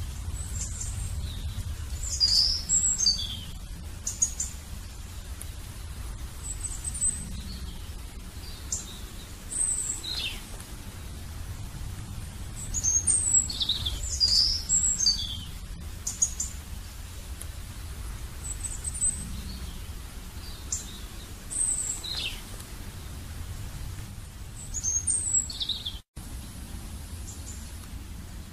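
Birds chirping in short bursts of high, downward-sliding calls every few seconds, over a steady low rumble.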